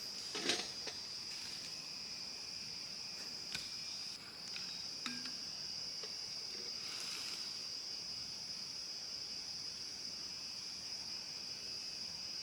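Steady high-pitched insect chorus, a continuous shrill drone, with a few scattered knocks and rustles; the sharpest knock comes about half a second in.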